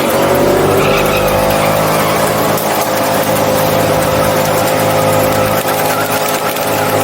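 Truck engine held at steady high revs, its pitch rising a little in the first second and then holding.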